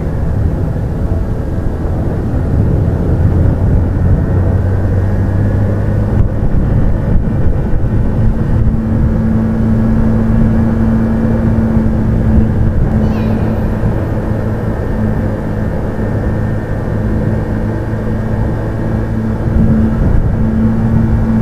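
Motorcycle engine running at a steady cruising speed under riding wind noise, a loud, even hum.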